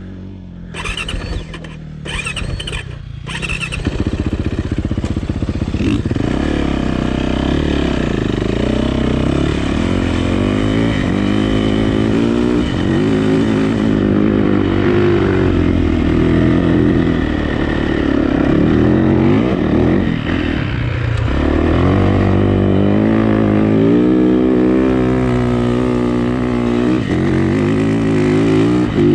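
Yamaha YZ450 dirt bike's engine running hard under load through sand, its pitch climbing and falling again and again as the rider works the throttle and shifts gears. Revs drop briefly about two-thirds of the way through. A few short knocks come in the first few seconds.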